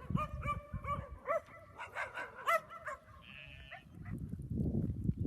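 Puppies whining and yelping in a quick series of short, high calls, with a low rumble near the end.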